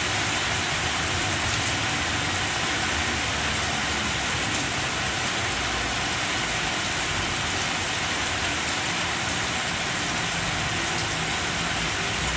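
Steady heavy rain falling on the broad leaves of banana plants: an even hiss with a low rumble underneath.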